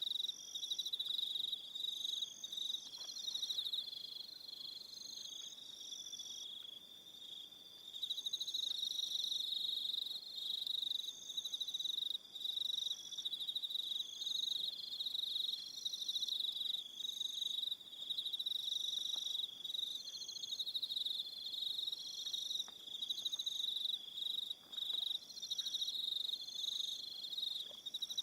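Crickets chirping in an evening chorus: a dense, fast-pulsing trill at one high pitch, with shorter chirps repeating above it about once a second. The main trill thins out a few seconds in and comes back strongly about eight seconds in.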